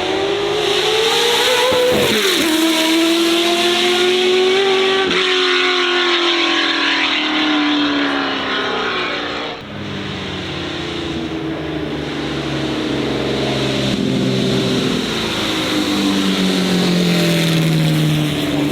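Oilstainlab Half 11's 650 hp LS V8 accelerating hard. The engine note climbs, drops sharply at gear changes about two and five seconds in, then slides down. After a short dip in level about halfway through, a second run follows, its pitch falling away.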